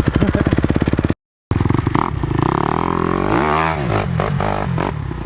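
Dirt bike engine running: rapid even firing at first, cut off abruptly about a second in, then revving up and back down near the middle.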